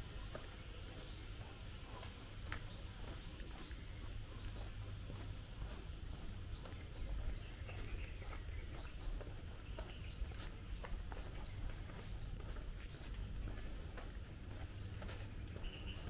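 Small birds chirping steadily: a continuous string of short, high, rising chirps, often in quick pairs, over a low rumble.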